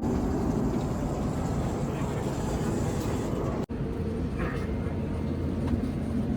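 Steady low rumble of a moving vehicle ride, broken by a brief dropout about four seconds in.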